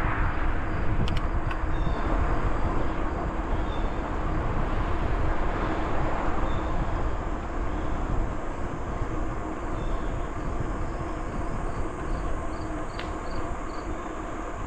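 Steady rumbling noise of a bicycle ride: tyres rolling over the trail surface and wind on the microphone, slowly easing off, with a short run of faint high chirps near the end.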